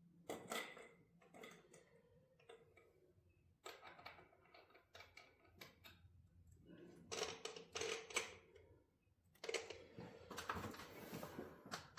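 Hand file scraping and clicking on metal in short, irregular bursts, the file finding little purchase in a cramped spot on the engine.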